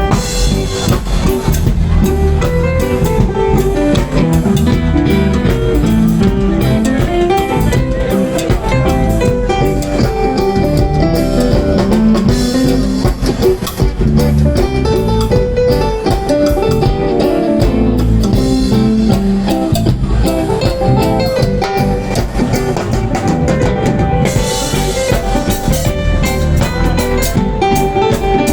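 Live band playing an instrumental passage of a reggae song without vocals, led by drum kit and guitar over a steady beat.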